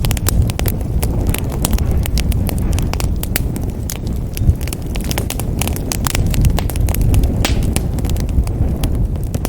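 Wood fire crackling in a fireplace: many sharp pops and snaps, irregular and close together, over a steady low rumble of flames.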